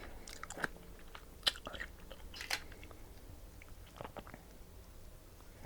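Close-up eating sounds: biting and chewing blue crab, with a few sharp crunches and clicks of shell and mouth scattered through.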